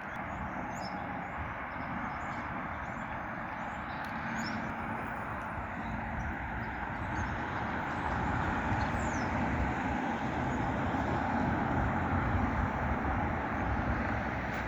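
Steady rumble of road vehicle noise that swells a little about halfway through, with faint high bird chirps over it.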